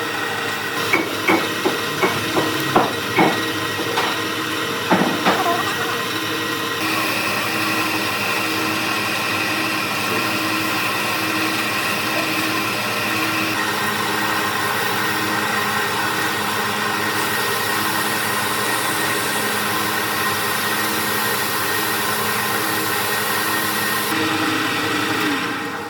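Wood lathe running steadily with a constant motor hum, with a quick run of sharp knocks in the first few seconds and a few more about five seconds in. The sound cuts off abruptly at the very end.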